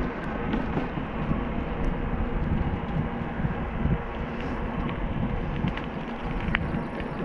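Steady rushing noise of a bike on the move, with wind buffeting the microphone and a few faint ticks.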